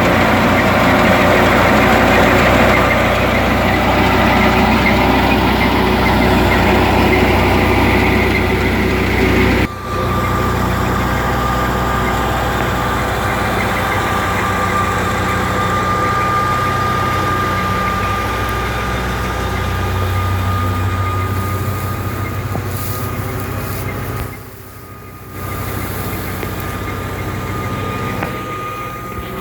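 Fiat 480 tractor's diesel engine running steadily under load as it drives a wheat thresher, with a steady whine over the engine. The sound briefly cuts out about ten seconds in and drops for about a second near the end.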